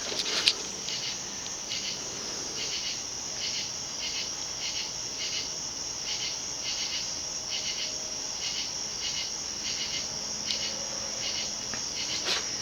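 Crickets chirping in a steady rhythm, a little under two chirps a second, over a constant high-pitched insect drone.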